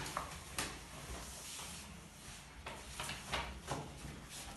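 Room noise in a small classroom: scattered small knocks, clicks and rustles of handling objects.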